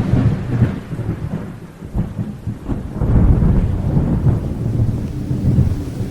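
Rolling thunder over steady rain. The low rumble swells and eases several times, with the hiss of rainfall beneath it.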